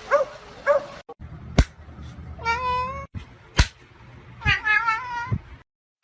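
A small dog yips twice, then a cat gives two long meows with a wavering pitch, with several sharp knocks in between.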